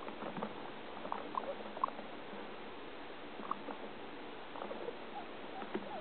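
Guinea pig making short, scattered squeaks and clicks in small clusters over a steady hiss. These are odd noises of unknown cause that its owner has heard off and on for days.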